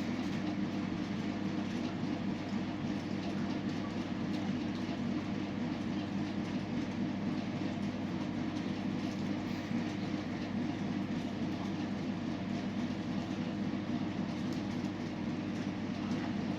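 A steady low rumble with a constant hum underneath, unchanging throughout.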